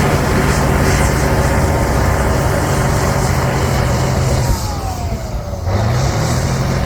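Cat D9L bulldozer's turbocharged diesel engine running steadily under load. About four and a half seconds in it eases off with a falling whine, then picks back up about a second later.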